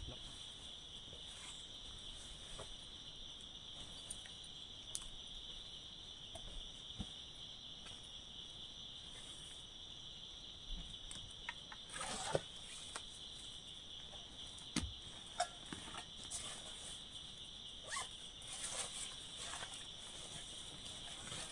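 Steady high-pitched insect chorus holding one unbroken tone, with scattered faint taps and ticks now and then.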